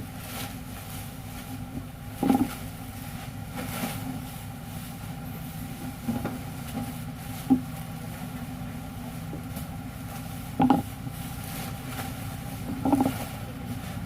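Machine running with a steady hum, broken by five sharp knocks at uneven intervals of a few seconds, as it works through a glue-cutting cycle.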